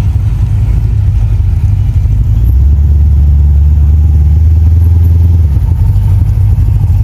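A car engine running with a deep, steady low rumble, which grows stronger and deeper for a few seconds in the middle as the car drives out.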